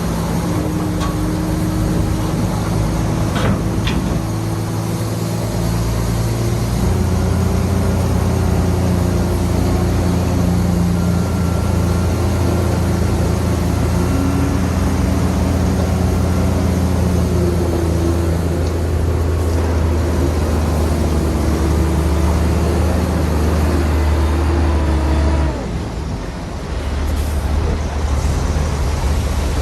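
Heavy diesel engine of earthmoving machinery running hard. Its note steps up about seven seconds in, holds, and drops off sharply near the end. There are a couple of sharp knocks a few seconds in.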